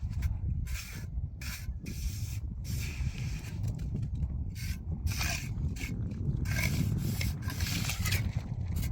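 Irregular scraping and rubbing strokes, coming thicker and louder from about halfway through, over a steady low rumble.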